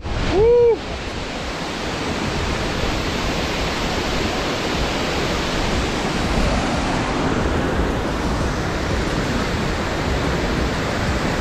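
Steady rushing roar of a large waterfall, an even wash of falling water, with a short rising-and-falling tone about half a second in.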